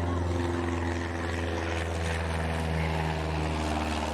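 An engine drones steadily as a low hum, its pitch shifting slightly about two seconds in.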